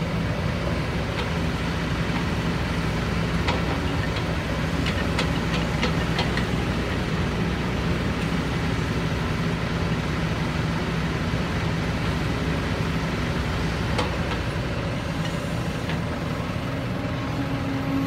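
Heavy diesel engine running steadily, with a few short sharp clicks or clanks scattered through, most of them about five to six seconds in and one near fourteen seconds.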